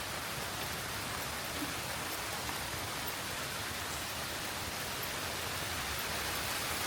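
Gentle rain falling steadily, an even hiss of rain on the ground and foliage.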